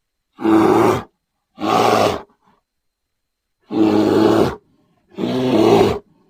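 A big cat roaring: four short, loud roars of under a second each, separated by silence.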